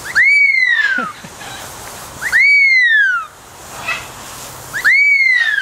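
A parrot whistling three times, each call a loud whistle about a second long that rises and then falls in pitch.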